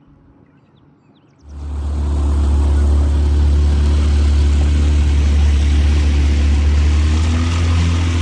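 Boat motor running steadily at speed, with loud wind noise on the microphone, starting abruptly about a second and a half in after a short quiet stretch.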